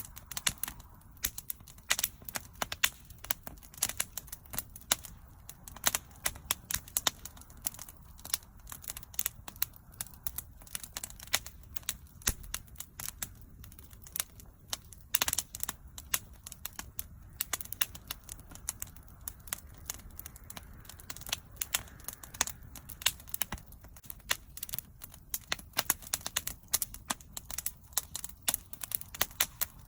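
Wood bonfire crackling: dense, irregular sharp pops and snaps over a low, steady rush of flame.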